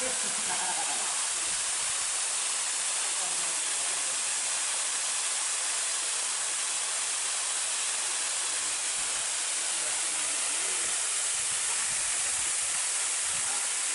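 Waterfall: falling water making a steady, hissing rush that doesn't change.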